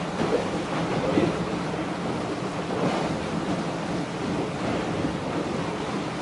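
Steady rush of wind over the microphone and water washing past a racing yacht under sail.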